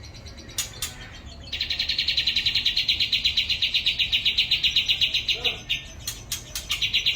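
White-rumped shama of the Aceh type singing a long, rapid, buzzing trill of about ten notes a second, which starts after a second and a half and lasts about four seconds, then starts again near the end. Several sharp clicks come between the trills.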